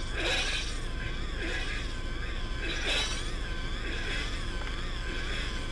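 Electronic drone and noise music: two steady tones wavering up and down in pitch about twice a second over a low rumbling hiss, with noisy swells coming back every second or so.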